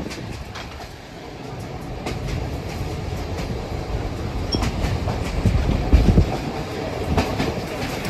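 Train rolling along the track: a low rumble with irregular clicking of wheels over the rail joints, dipping about a second in, then growing louder.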